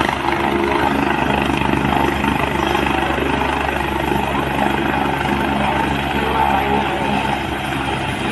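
Helicopter rotor running steadily, a continuous rapid blade chop with engine whine.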